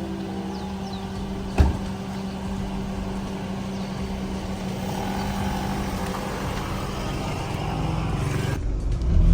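Car running, a steady hum with a constant low drone, and a single sharp knock about a second and a half in. Near the end the sound changes abruptly to a louder low rumble.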